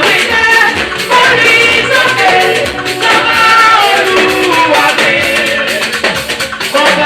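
Live gospel praise band music with singing over a steady percussion beat.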